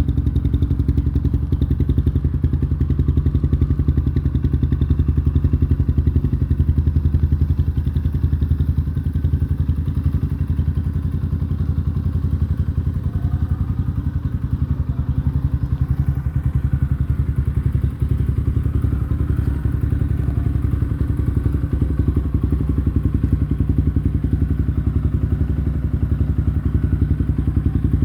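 Yamaha Scorpio's single-cylinder four-stroke engine idling steadily through an R9 Mugello aftermarket exhaust, a deep, even exhaust note.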